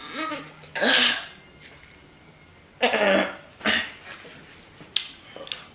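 A person coughing and clearing their throat in several short bursts, with a couple of sharp clicks near the end.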